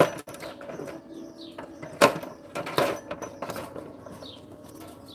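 A small bird chirping in short, falling notes several times, with sharp knocks right at the start and again about two and three seconds in.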